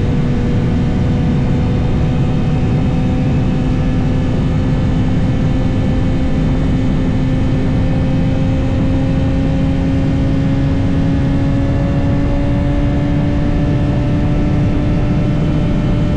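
BMW S1000RR inline-four engine running at a steady cruise, its pitch climbing slowly and evenly as the bike gently gains speed, over a low rushing noise of wind.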